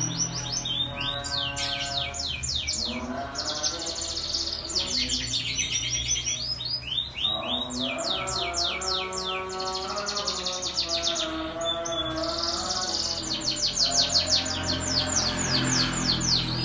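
Domestic canary singing: long trills of rapid, repeated down-sweeping chirps alternating with buzzier rolled phrases. A lower, held pitched tone sounds under the song in several stretches.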